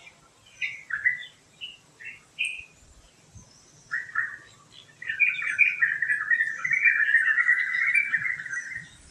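Birds chirping: several short separate chirps in the first few seconds, then from about five seconds a loud, continuous warbling chatter that runs almost to the end.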